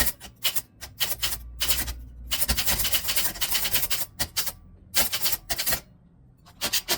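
Typewriter being typed on: fast runs of keystrokes and longer rattling stretches, easing off to a lull near the end with a last couple of strikes.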